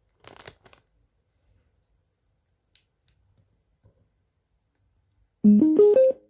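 A few faint clicks and rustles, then near the end a Bluetooth speaker's chime: a quick run of short tones stepping up in pitch, the sign of the speaker switching into Bluetooth mode.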